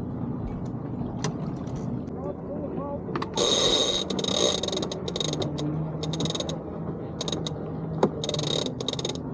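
A sailing yacht's sheet winch cranked in several short spurts, its pawls ratcheting rapidly with a bright metallic clicking, over a steady low rumble.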